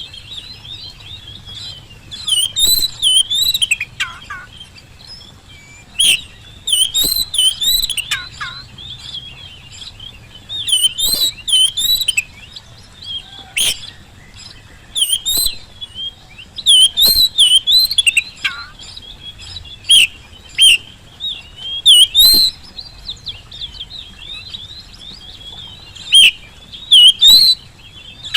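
Oriental magpie-robin (kacer) singing in full song: loud phrases of warbled whistles and sharp chattering notes, each about a second long, repeated after short pauses, a few dipping down into lower slurred notes.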